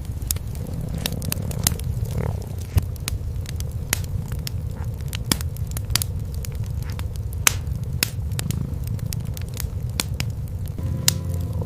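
A cat purring, a steady low rumble, under a wood fire crackling with frequent sharp pops.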